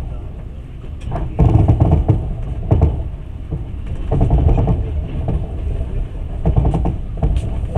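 Passenger train running, a steady low rumble heard from inside the carriage, with indistinct voices rising over it now and then.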